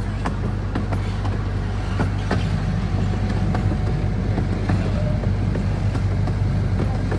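Small-gauge park train running, heard from an open passenger car: a steady low rumble, with irregular clicks and knocks of the wheels over the rail joints.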